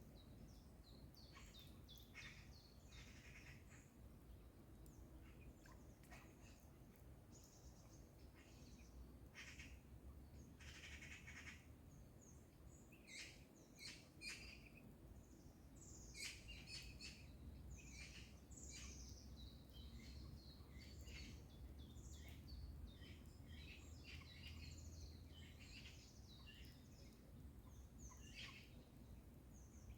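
Faint morning birdsong: many short chirps and calls from several birds, with the harsh chattering of Eurasian magpies, over a steady low background rumble.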